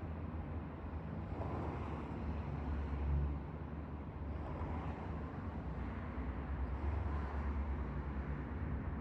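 A vehicle's engine running with a steady low rumble, mixed with road and tyre noise, swelling louder a couple of times.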